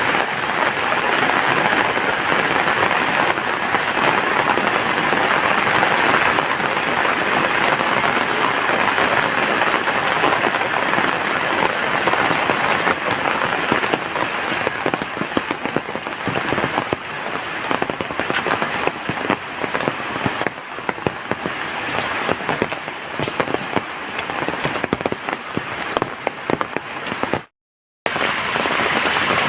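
Heavy rain falling steadily: a dense hiss of countless drops striking surfaces, easing slightly in the second half. The sound cuts out to silence for about half a second near the end.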